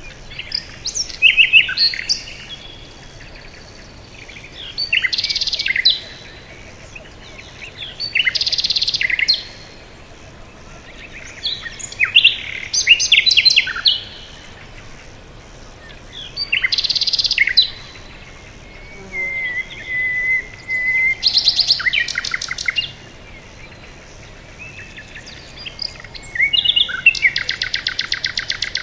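Songbirds singing in short, bright phrases every three to four seconds over a faint steady background. About two-thirds of the way through comes a held whistled note, and near the end a fast, even trill.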